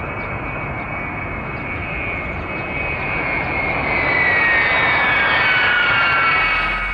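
Jet airplane passing over, a steady rush of engine noise with a high whine that slides down in pitch as it goes by. It grows louder about four seconds in, then cuts off abruptly.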